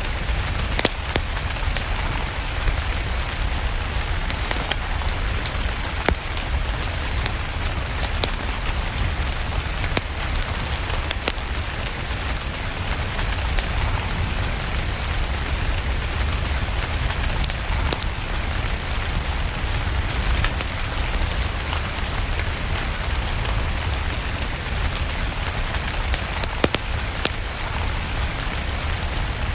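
Steady rain, with scattered sharp crackles and pops from a wood fire over a low rumble.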